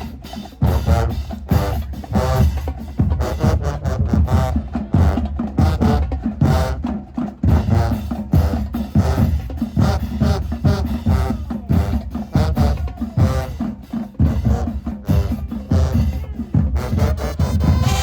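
High school marching band playing: brass over a steady beat of bass drums and snare drums.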